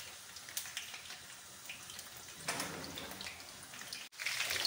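Soft, steady sizzling and crackling of food frying in pans on a gas hob: eggplants frying in seed oil and a tomato and onion soffritto cooking. A little after four seconds it cuts and the frying sizzle comes in abruptly louder.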